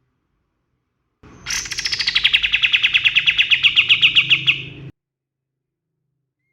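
Kapas tembak singing one rapid trill, about three and a half seconds long: a high opening note sliding down, then a fast run of evenly repeated notes, about ten a second, ending abruptly.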